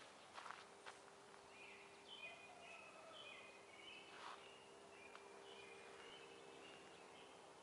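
Faint songbird chirping, a quick run of short high notes, over quiet woodland ambience, with a couple of soft footsteps on the dirt trail near the start.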